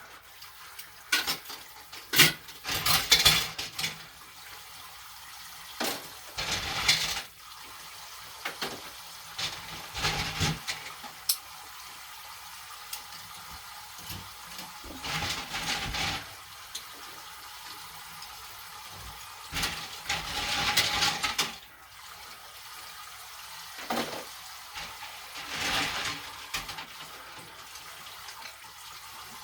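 Dishwashing at a kitchen sink: a tap runs steadily while dishes and pots clink and clatter and water splashes every few seconds.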